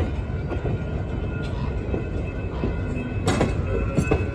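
Steel wheels of vintage California Western passenger coaches rolling past on the rails, a steady low rumble. Two sharp clanks come near the end.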